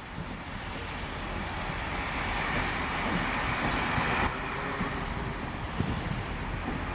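Chiltern Railways diesel multiple unit passing along the station line, a steady low rumble with engine and wheel noise that builds, then drops away suddenly about four seconds in.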